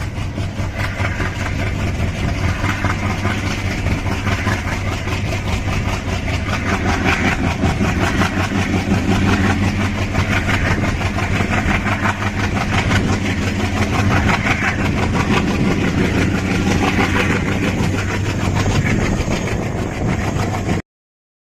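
Express train running past on electrified track: a loud, steady mix of hum and fast rapid clatter that builds slightly, then cuts off abruptly near the end.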